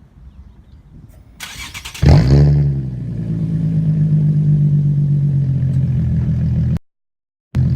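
Straight-piped 2007 Infiniti G35's 3.5-litre V6, with its muffler and resonator deleted, starting: a brief crank from the starter, then the engine catches with a loud flare in revs that falls away and settles into a steady idle. The sound cuts off suddenly and comes back at idle near the end.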